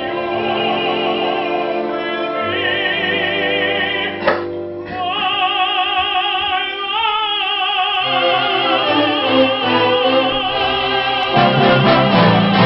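Operatic singing: a trained solo voice holding long notes with a wide vibrato over sustained accompaniment, the texture thickening near the end.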